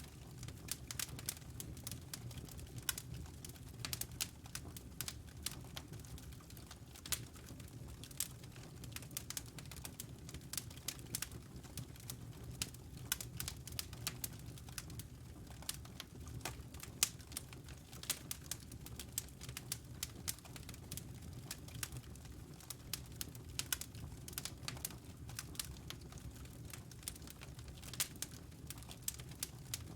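Campfire crackling: irregular snaps and pops of burning wood, some sharper than others, over a low steady rumble of the flames.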